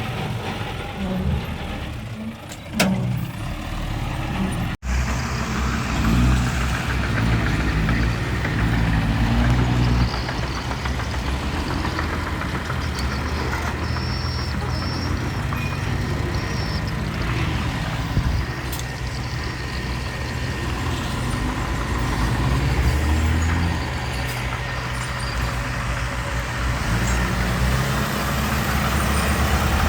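Diesel engines of dump trucks and a small crawler bulldozer working, running steadily, with a brief dropout about five seconds in.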